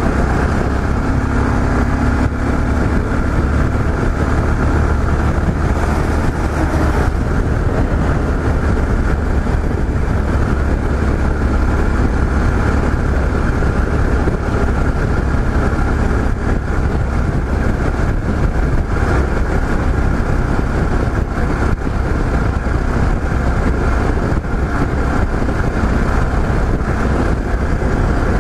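Yamaha XT 660Z Ténéré's single-cylinder engine running steadily while riding on the highway, under a steady rush of wind and road noise.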